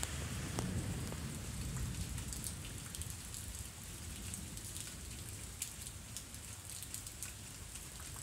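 Steady rain falling, with many drops ticking on nearby surfaces; a low rumble of thunder dies away in the first couple of seconds.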